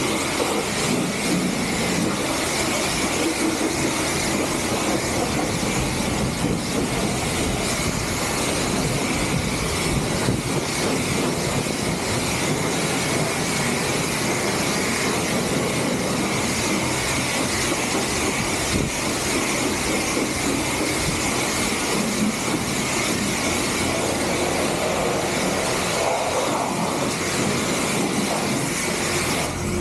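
Vacuum cleaner running steadily with a constant motor whine, sucking up dirt while cleaning out a car.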